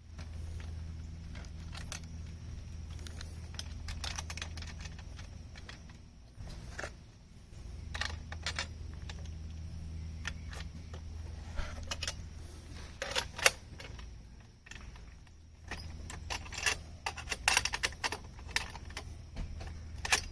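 Scattered metallic clinks and rattles of hardware and tools being handled while an aluminum chainsaw mill is assembled, coming more often in the second half, over a steady low hum.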